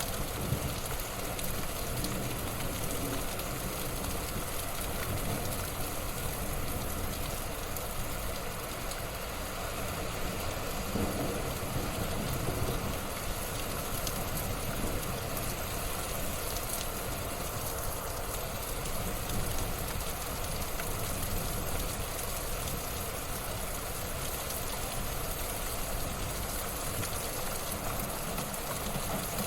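Wood fire burning in a fireplace: a steady hiss with small scattered crackles.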